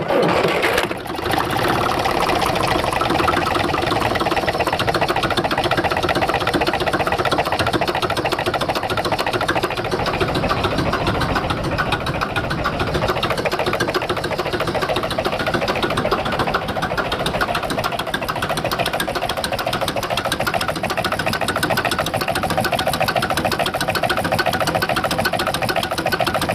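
Mini tractor engine running steadily under load, with a fast, even clattering beat.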